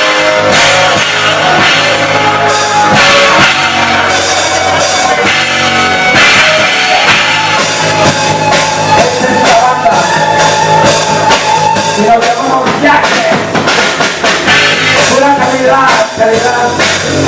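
Rock music with drum kit and guitar in a stretch without lyrics, a melodic guitar-like line carrying the second half.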